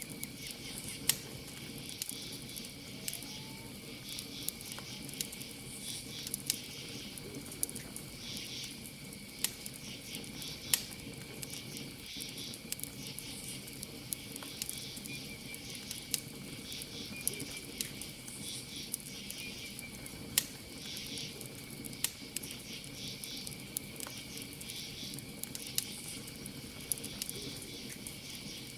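Campfire crackling, with sharp pops at irregular intervals, over a steady chorus of crickets and other night insects chirping in high-pitched pulses.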